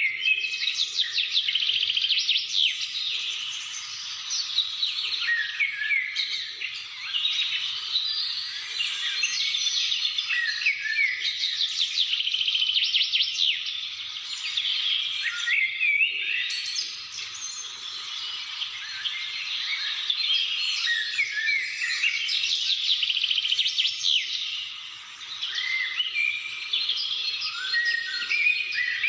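Several birds singing and calling at once in a continuous chorus of chirps and fast trills, with short rising and falling whistled notes.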